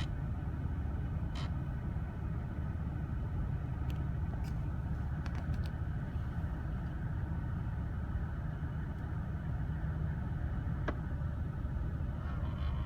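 Infiniti FX35 running: a steady low rumble with a faint steady whine above it and a few scattered clicks, heard at a vent near a wheel where the owner notices a strange noise.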